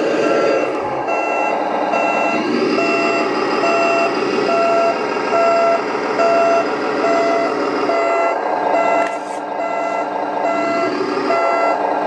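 Truck reversing alarm beeping steadily at an even pace over a running diesel truck engine sound, played by the sound unit of a radio-controlled Scania model truck as it backs up.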